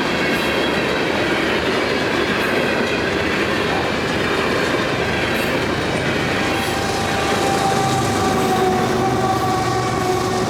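Loaded potash hopper cars of a heavy CN unit train rolling past, a steady rumble of wheels on rail with some clickety-clack. About two-thirds of the way through, a steady high whine with a low hum beneath it joins in and sinks slightly in pitch.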